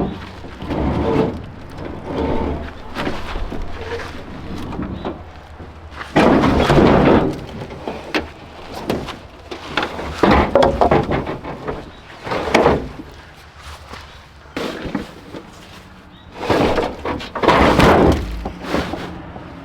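Irregular knocks, clunks and scraping from hand work on an old pickup truck's body and parts, in several loud bursts of up to a second or so each.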